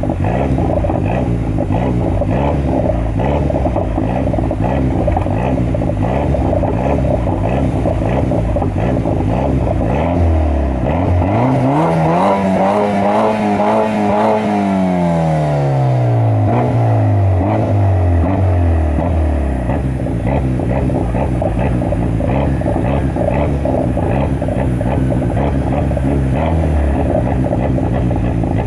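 BMW X4 engine through its sport-muffler exhaust, idling and then revved once: the pitch climbs from about ten seconds in, holds briefly, and drops back to idle by about twenty seconds.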